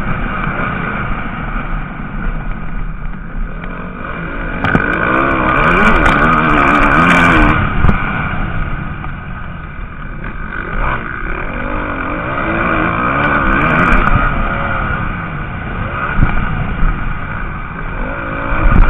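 Motocross bikes racing on the track, their engines revving up and down through the gears. Bikes pass closest about five to eight seconds in and again near fourteen seconds.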